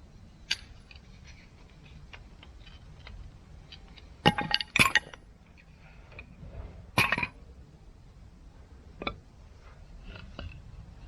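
Camp cookware and tableware clinking: a few light clicks, then a loud pair of clinks about four to five seconds in and another about seven seconds in, each with a short ring, and a softer knock about nine seconds in.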